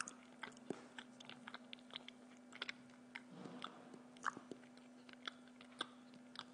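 A person chewing a mouthful of sandwich close to the microphone: irregular wet clicks and smacks of the mouth and food, several a second, over a faint steady hum.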